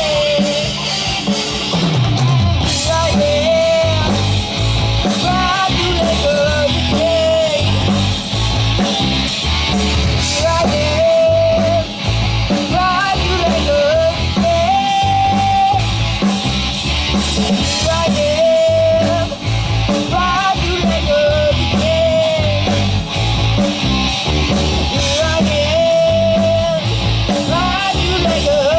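Hard rock instrumental section: a lead electric guitar plays a bending, sustained melody over a steady drum beat and bass.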